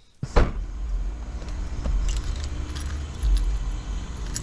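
A sharp knock, then a Hyundai Sonata's engine running at idle with a steady low rumble, keys jingling lightly over it.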